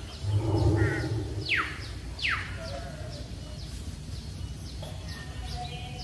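Birds chirping: two sharp, falling whistled calls about one and a half and two seconds in, with faint short chirps through the rest. A low, rough sound fills the first second.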